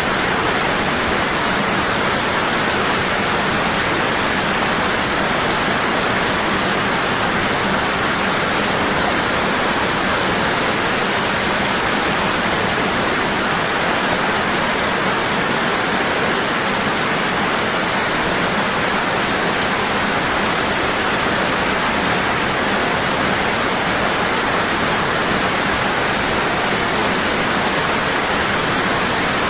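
Waterfall falling heavily and steadily: an unbroken rush of water.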